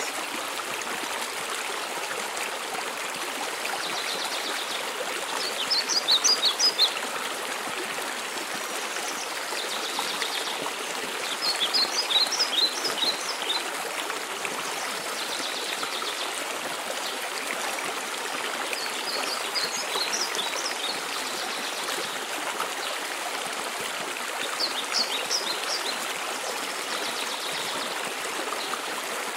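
Steady rush of a mountain waterfall and stream, with a small songbird singing short bursts of high chirping phrases every five to seven seconds, loudest about six and twelve seconds in.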